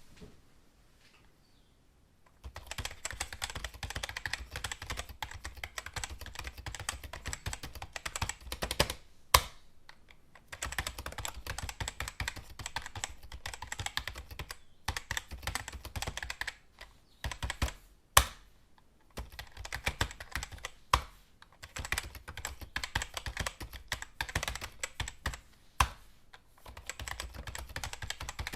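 Fast typing on a computer keyboard: rapid runs of keystrokes broken by short pauses, starting after about two seconds of near quiet. Two louder single key strikes stand out from the rest.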